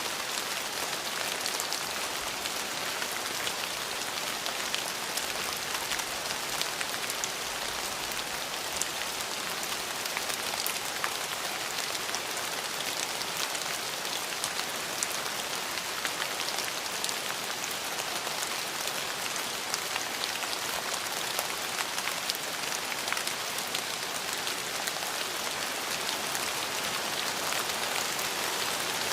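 Steady rain falling, an even hiss with many small drops pattering on a hard surface.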